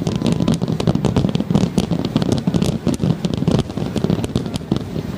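Fireworks barrage: a dense run of quick crackling pops over a continuous low rumble of bursts, thinning a little near the end.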